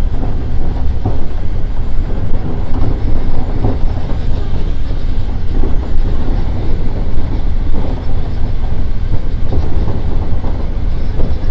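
E231 series electric commuter train running at speed, heard from inside the front car: a steady, loud rumble of wheels on rail with irregular knocks and clatter from the track.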